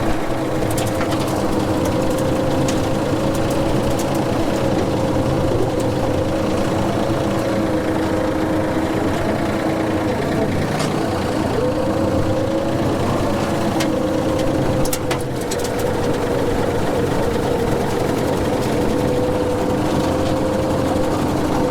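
Farm tractor running steadily while driving a brush hog rotary mower: an even mechanical drone with a wavering hum and a few scattered faint ticks.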